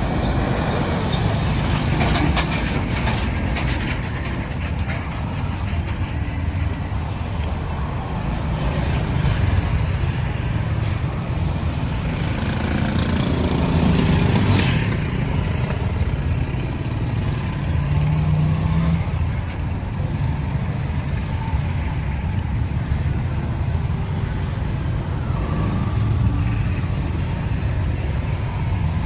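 Road traffic noise: a steady rumble of engines and tyres from passing trucks, cars and motorbikes, with a louder hissing pass about halfway through.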